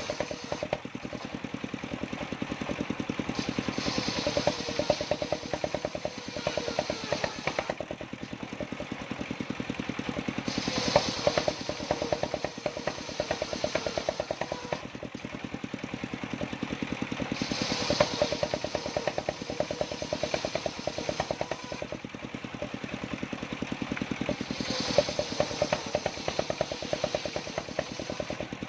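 Engine-driven mobile circular sawmill running steadily, its engine pulsing evenly. About every seven seconds the saw blade bites into johar wood and a louder, higher rasp swells up and fades as each cut goes through.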